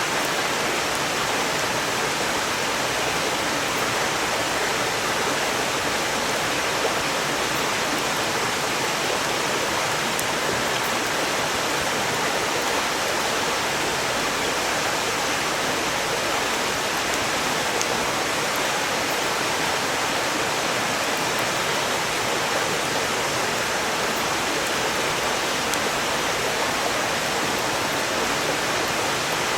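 Valley stream rushing steadily beside the campsite, an even wash of flowing water. A few faint crackles from the burning firewood come through now and then.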